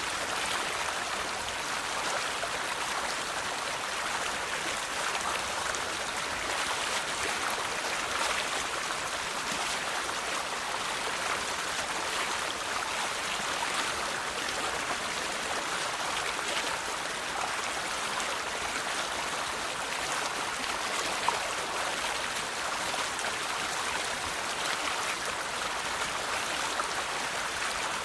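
River water flowing and splashing over rocks, a steady rushing with a bright splashing texture.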